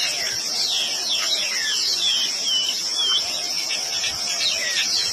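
Outdoor nature ambience: a steady, high insect trill with many short bird chirps and whistles over it.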